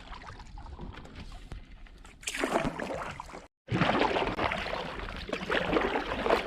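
Canoe paddle strokes in river water: splashing and sloshing, louder in two stretches from about two seconds in, broken once by a sudden cut.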